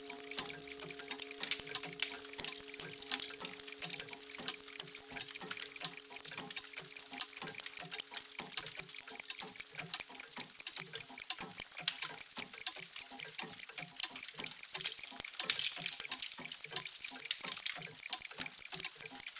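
Many clocks ticking at once, a dense and uneven patter of overlapping ticks. A faint ringing of a few held tones fades away over the first several seconds.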